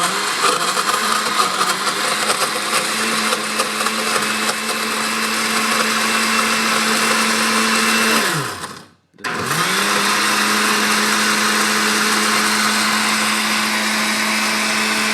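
Countertop blender running, chopping a thick load of pizza, bacon and milk; the motor runs about eight seconds, winds down and stops, then starts again about nine seconds in and keeps running.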